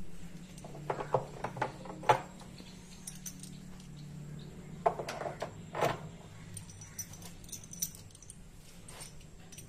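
Small metal items clinking and rattling in several short clusters, over a steady low hum.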